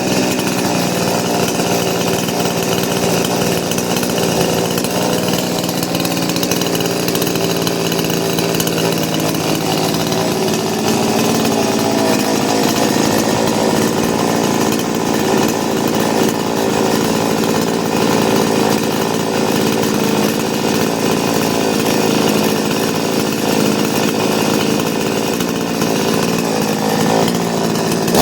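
Petrol chainsaw's two-stroke engine running steadily at a fairly even speed.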